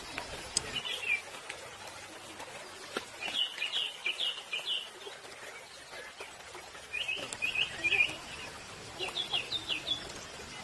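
A small bird chirping in quick runs of high notes: four short phrases a few seconds apart.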